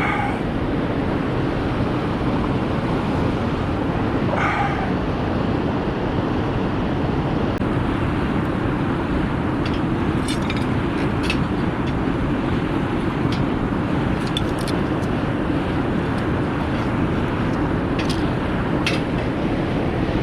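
Steady rushing background noise, with the sharp crackles and pops of a burning wood fire coming in from about halfway on.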